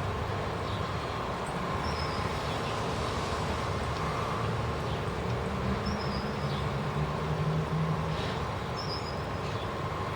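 Steady outdoor background noise with a low rumble that swells slightly past the middle, and a short high chirp heard three times, a few seconds apart.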